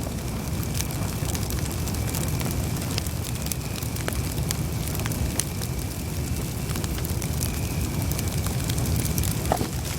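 Campfire burning steadily: a low rumble of the flames with frequent small crackles and pops of burning wood scattered throughout.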